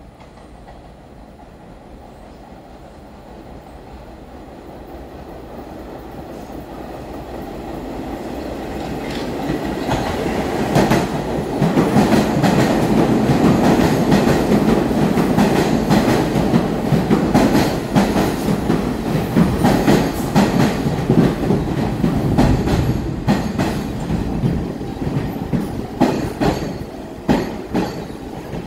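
New York City subway train approaching: the rumble of its wheels and motors grows louder over about ten seconds, then the wheels clack sharply over rail joints as the cars go by.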